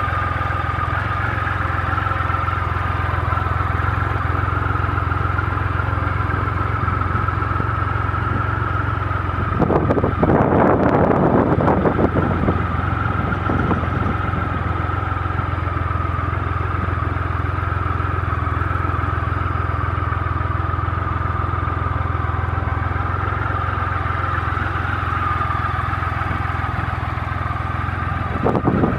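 2007 Triumph Rocket III Classic's 2.3-litre inline-three engine idling steadily, with a louder, rougher burst lasting about two seconds around ten seconds in.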